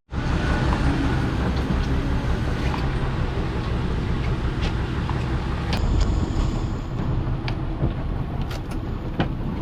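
Steady rumble and hiss of a fishing boat at sea, with a few light clicks and knocks.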